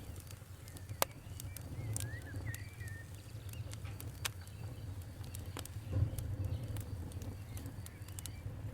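Campfire crackling: scattered sharp pops and snaps, the loudest about a second in and again around four seconds, over a low steady rumble of the flames. A bird chirps briefly around two seconds in.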